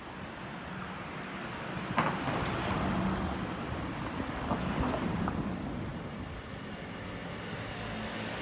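Road traffic: a motor vehicle's engine running nearby over a steady traffic hum, with a sharp click about two seconds in.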